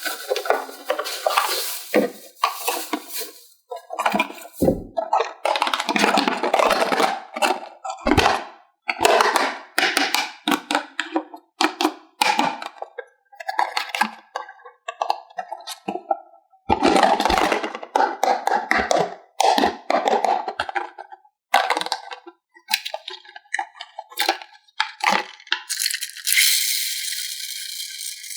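Plastic toy parts and packaging being handled: irregular clicks, clinks, rattles and rustling scrapes, followed by a steady hiss near the end.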